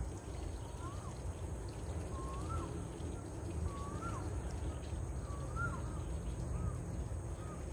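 A bird calling: a short whistled note that rises and then drops, repeated about six times, roughly every second and a half, the last ones fainter, over a steady low rumble.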